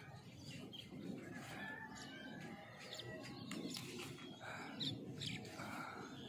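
Small birds chirping now and then, in short high calls, over a faint low outdoor rumble.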